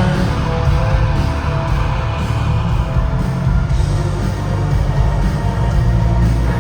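A live rock band playing loud, with a heavy, booming bass and drum low end and electric guitar over it.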